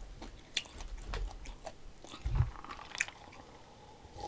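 A person chewing and biting crunchy food close to the microphone, with scattered sharp crunches. A short low thump about two and a half seconds in is the loudest sound.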